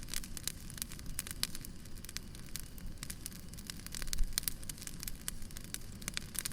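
Wood fire burning, crackling with many quick, irregular pops over a low steady rumble, one pop louder than the rest about four seconds in.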